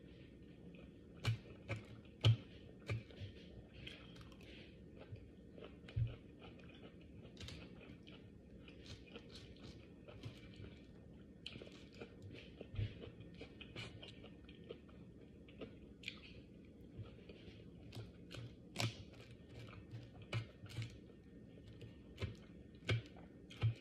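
Close-miked chewing and biting of someone eating, with irregular crunches and sharp mouth and utensil clicks over a faint steady low hum.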